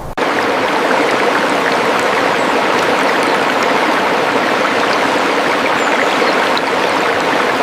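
Running water: a steady rush with no pitch that starts suddenly just after the start and stops suddenly near the end.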